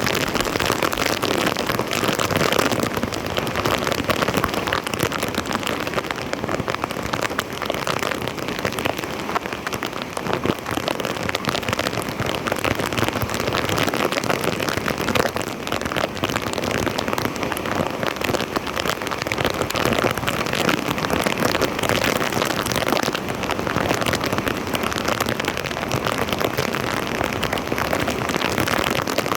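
Steady, dense splashing and pattering of water that runs on without a break or any change in level.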